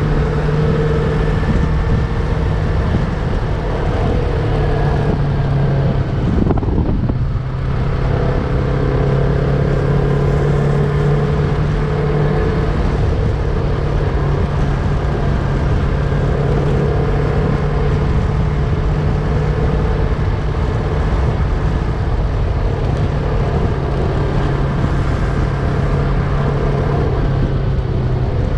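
Yamaha MT-03's parallel-twin engine running at a steady cruising note while riding, with wind noise on the microphone. The engine note breaks briefly about seven seconds in, then carries on slightly lower.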